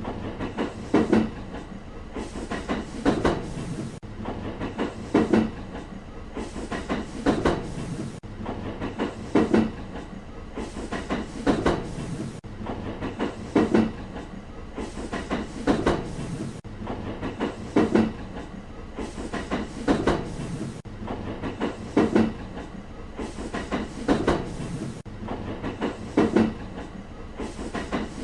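Train rolling past with its wheels clacking over the rail joints, a cluster of clacks about every two seconds over a steady rumble.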